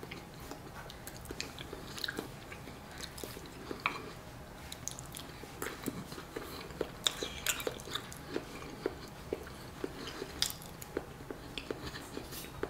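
Close-up chewing and mouth sounds of a person eating a forkful of mashed potatoes and gravy, with many small irregular clicks and moist crackles.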